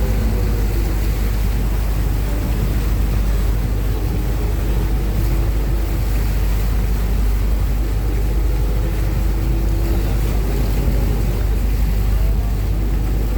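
Uber Boat river-bus catamaran under way at speed: a steady engine drone and rushing water, with wind on the microphone.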